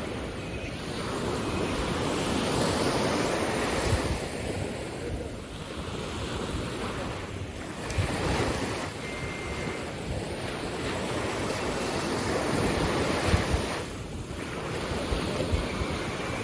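Sea waves breaking on a beach, the wash swelling and easing every few seconds, with wind buffeting the microphone.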